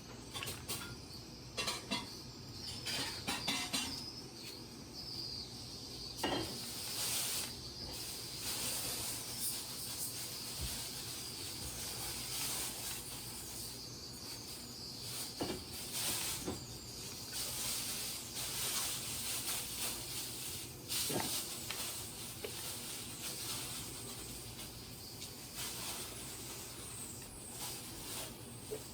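A toddler eating grapes: scattered small mouth smacks and slurps over a steady hiss with a faint high-pitched whine.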